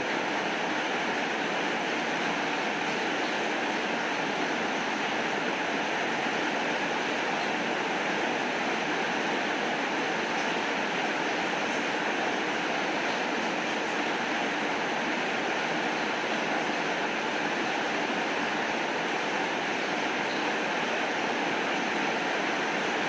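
Steady rain falling, an even hiss that never breaks or changes.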